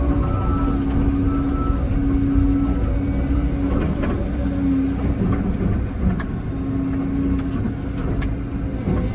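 Excavator's diesel engine and hydraulics running under load, with a pitched whine that comes and goes and a few sharp knocks in the middle.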